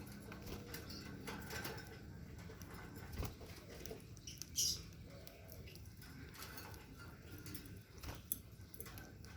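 Faint clicks, light knocks and rustling around a lovebird cage, with one short high chirp about four and a half seconds in.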